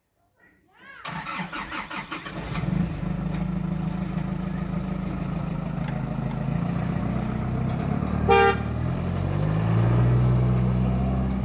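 A motor vehicle's engine starts about a second in, with a stuttering burst, then runs steadily, its pitch shifting as it revs or changes gear. A short horn toot sounds a little after 8 seconds in.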